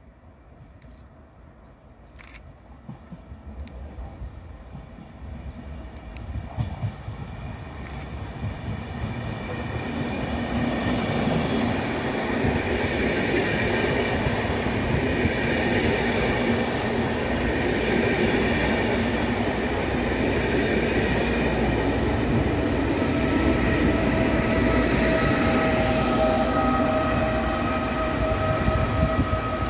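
Regional push-pull train of double-deck coaches with an E.464 electric locomotive passing along the station platform: the rumble of wheels on the rails builds from faint to loud over the first ten seconds and then holds. A steady electric whine joins a few seconds before the end as the locomotive goes by.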